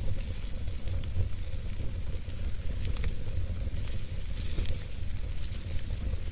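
Fire burning in a fireplace: a steady hissing rush over a low rumble, with occasional sharp crackles, the clearest about three seconds in.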